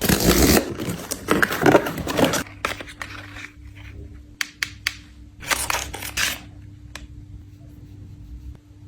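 Rustling and tearing of packaging for about two and a half seconds, then a few sharp clicks and short scrapes over a faint steady hum.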